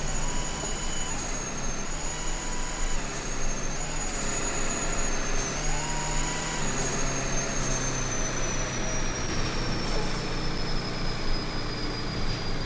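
Truck engine running while driving, its pitch shifting in steps, with a thin high whine that slowly drops in pitch over the second half.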